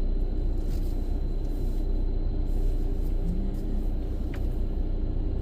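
Steady low rumble inside a car's cabin as the car idles and creeps forward onto a tunnel car wash's conveyor belt, with a short low hum a little past the middle and a single click near the end.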